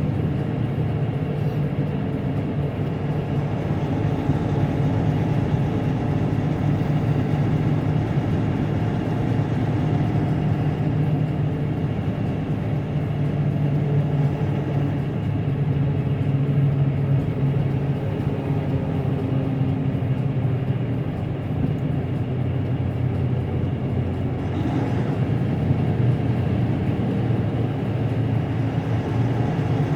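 Semi-truck's diesel engine running steadily with road noise, heard from inside the cab while cruising on the highway; the engine note drifts up and down slightly.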